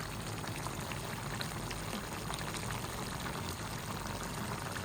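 Pot of chicken puchero stew boiling steadily: a constant bubbling hiss with many small pops.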